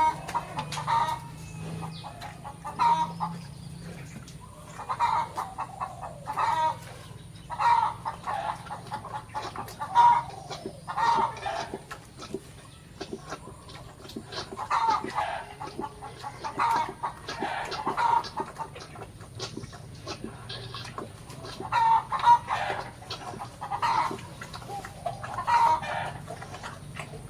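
Chickens clucking over and over, in short clustered calls every second or two.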